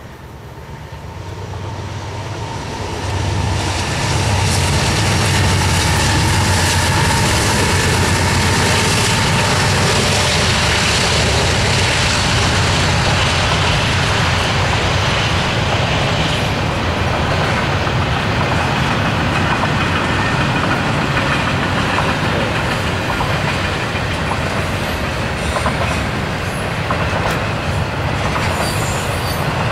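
Norfolk Southern double-stack intermodal train rolling past, its loaded container well cars sounding as a steady rumble of steel wheels on the rails. The sound swells over the first few seconds, then holds steady.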